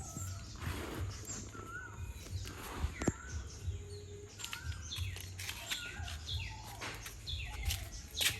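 Small birds chirping in short rising-and-falling calls, over faint rustling and a few clicks from hands mixing chopped leek leaves and rice polish in a basin.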